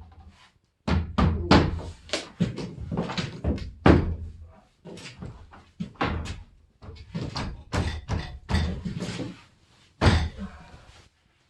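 Irregular series of knocks and thuds, some loud, from wooden door-frame pieces being handled and knocked into place.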